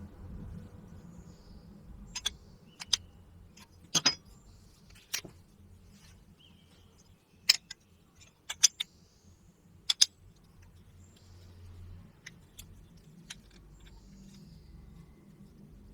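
Irregular sharp clicks and clinks of small hard parts and tools being handled and set down, some in quick pairs, over a low steady hum.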